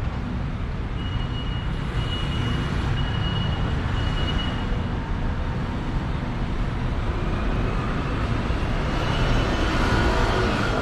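Road traffic: a steady low rumble of passing cars and buses. A high beeping tone repeats about once a second from about a second in until about five seconds in, and the traffic grows a little louder near the end as a vehicle comes closer.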